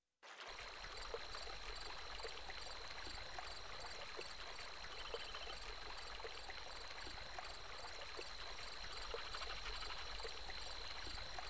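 Night ambience of a flowing stream, with a steady high insect drone, evenly pulsing cricket chirps above it and scattered short frog calls. It fades in just after the start.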